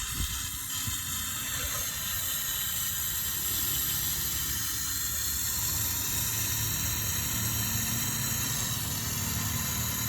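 Gas brazing torch flame hissing steadily on air-conditioner copper pipe, with a low hum coming in about halfway through.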